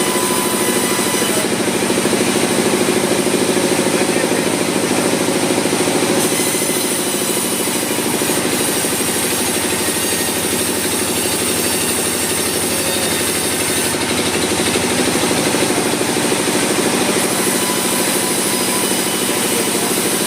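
Sawmill machinery running steadily, a loud, continuous mechanical noise with a steady hum underneath.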